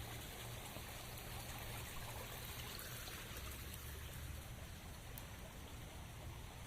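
Steady rain with water trickling and running: an even hiss over a low rumble, with faint scattered drop ticks.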